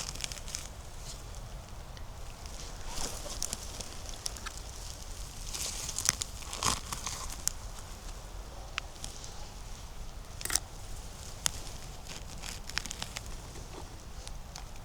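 Dry leaves and twigs crackling and rustling underfoot on the forest floor, in scattered, irregular crunches.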